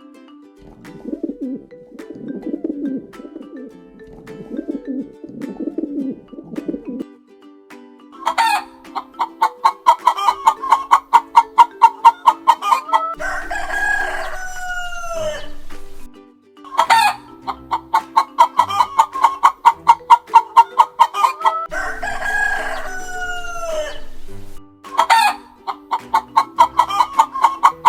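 Bird calls: low calls in the first seven seconds, then twice a fast run of short sharp calls, about four or five a second, each run ending in one long call that rises then falls. Steady background music plays underneath from about seven seconds in.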